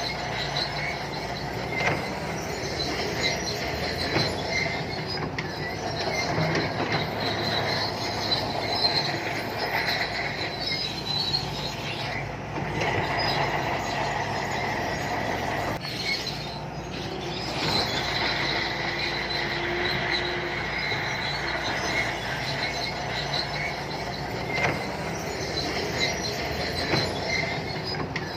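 SANTUI crawler bulldozer working: the steel tracks squeal and clank steadily over the running diesel engine.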